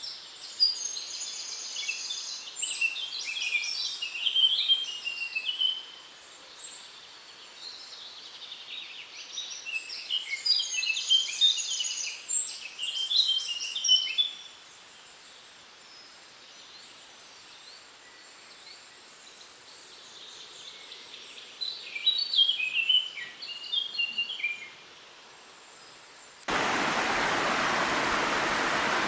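A songbird singing three long phrases of rapid, high chirps and trills, with pauses between them, over a faint hiss. About 26 seconds in, the sound cuts abruptly to a loud, steady rush of water from a small waterfall.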